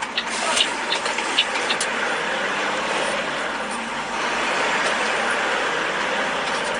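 Steady rushing noise of a motor vehicle on the move, with a few short clicks or knocks in the first two seconds.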